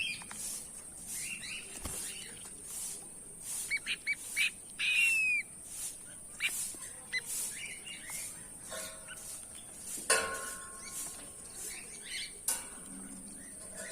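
Goldfinches giving short, scattered chirps and twittering calls with quick rising and falling notes, over a steady high hiss.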